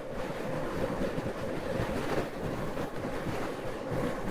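Steady rush of wind noise over the microphone of a moving Moto Guzzi V85 motorcycle, with the bike running underneath.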